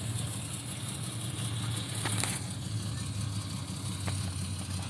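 Classic car's engine idling through old side exhaust pipes, a steady, deep, lumpy rumble that sounds stout.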